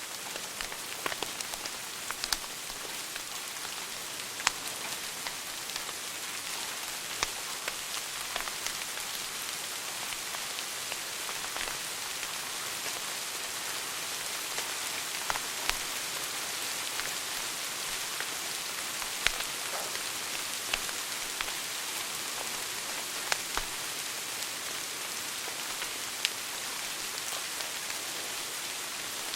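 Wood fire burning in a fireplace, crackling: a steady hiss with irregular sharp pops and snaps, a few of them much louder than the rest.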